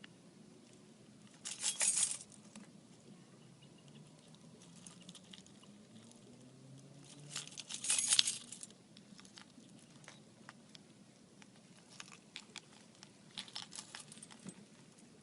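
Three short bursts of light clinking and rattling, about six seconds apart, over a faint steady background hum; the middle burst is the loudest.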